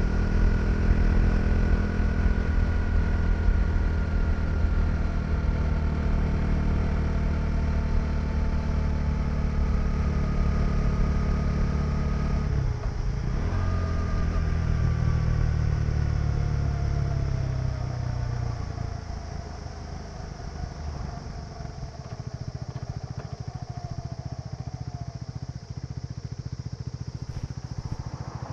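KTM 390 Duke's single-cylinder engine running on a ride, its pitch slowly falling as the bike slows, with a short break about halfway through, likely a gear change. From about two-thirds of the way in, it runs quieter and lower, as if closed off or near idle.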